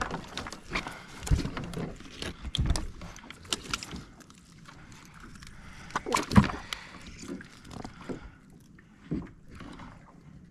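Irregular knocks and thumps on a fishing kayak as fish and gear are handled aboard, the loudest about six seconds in.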